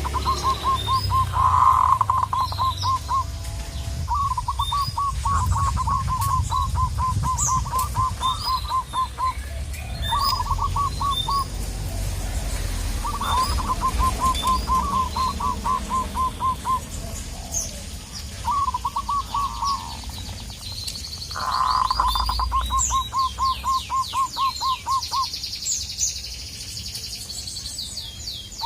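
Zebra dove (perkutut) calling: about six bursts of fast, stuttering cooing notes, each lasting one to five seconds with short gaps between. Other small birds chirp higher up, and a fast run of high, rising notes sounds near the end.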